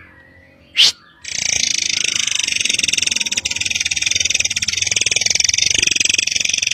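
Murai air (forktail) song: one sharp high call, then a very fast, high, rattling trill that runs on for nearly six seconds.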